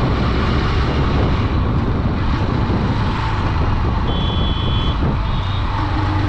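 Honda Dream 110's single-cylinder 110cc engine running at riding speed, under steady wind and road noise. A short high-pitched beep sounds about four seconds in.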